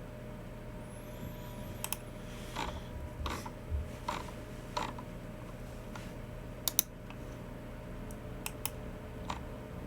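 Sparse, uneven clicks from a Logicool MX Keys Mini keyboard and a Logicool G304 mouse: a handful of soft key taps and several sharp clicks, among them a quick pair about seven seconds in.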